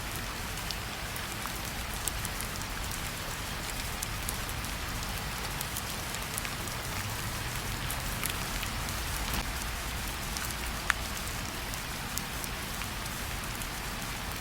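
Steady rain falling, with scattered individual drops ticking on a surface; one sharper drop tick about eleven seconds in.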